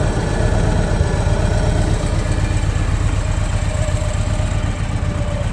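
Victory Cross Country Tour's Freedom 106 V-twin engine idling steadily, with a low rumble of fast even pulses.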